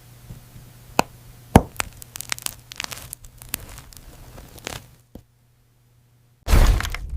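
Sticky gel plugs being pulled and popped: a run of sharp clicks and crackles, the loudest about a second and a half in. The sound drops out just after five seconds, and a louder rustling noise starts near the end.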